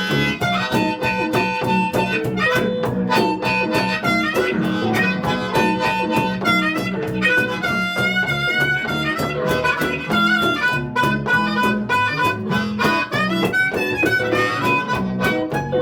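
Live blues played on harmonica, the notes bending and wavering, over a rhythmic guitar accompaniment.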